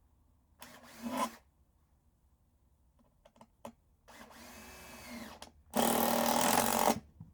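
Power drill driving screws in three short runs: a brief one about half a second in, a longer one around four seconds in, and the loudest, about a second long, near the end. A few light clicks fall between the runs.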